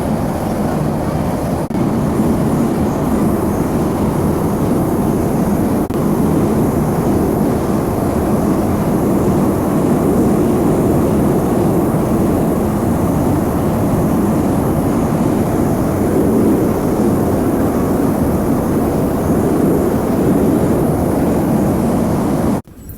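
Metro train running between stations, heard from inside the carriage as a loud, steady rumble and rush that cuts off abruptly near the end.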